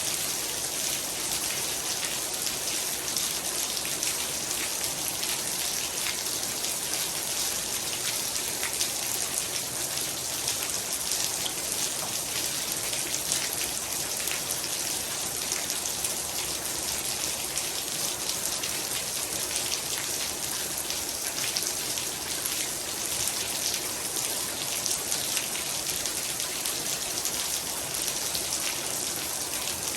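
Heavy rain falling steadily: a dense, even hiss of many drops, with individual drops ticking through it.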